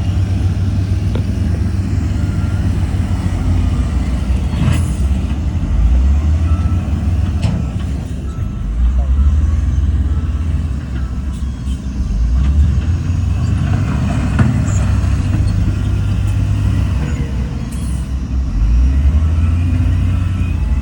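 Heavy diesel engine of an earthmoving machine working, its low drone swelling and easing as the load changes, with a couple of sharp clanks.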